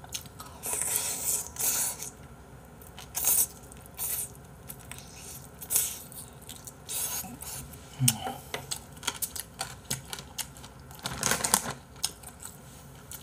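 Close-miked chewing and wet mouth sounds of a person eating pieces of braised chicken, in irregular short bursts with small clicks. Near the end a paper tissue rustles.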